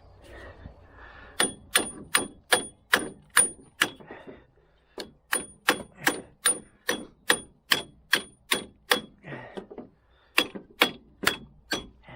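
Hammer blows on metal during strut removal on a Dodge Caliber, struck at a steady pace of about two and a half a second. Each blow rings briefly. They come in three runs with short pauses between.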